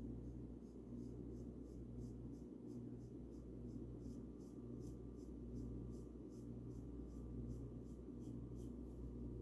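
Paintbrush bristles brushing paint onto a bird house in quick back-and-forth strokes, about three soft scratchy strokes a second, growing stronger after about four seconds, over a low steady hum.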